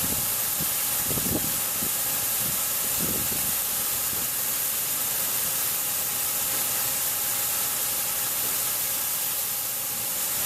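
Wheat grain pouring out of a truck into a grain elevator's underground pit: a steady rushing hiss.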